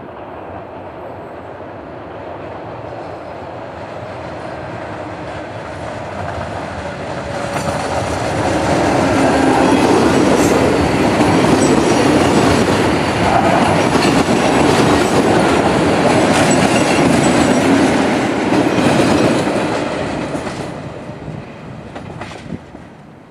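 Electric multiple unit passenger train passing close by, building up as it nears, its wheels clicking over the rail joints at its loudest, then fading as it runs off.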